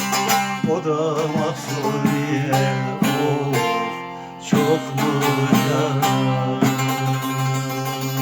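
Instrumental closing passage of a Turkish folk song on a strummed plucked string instrument, held notes ringing over a steady low drone, with fresh strummed attacks about three and four and a half seconds in.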